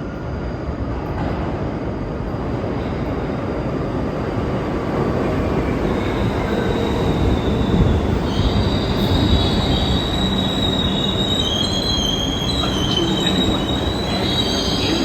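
New York City subway train running into the station, its rumble growing steadily louder. From about six seconds in, a high multi-toned squeal from the steel wheels and brakes joins the rumble and lasts to the end.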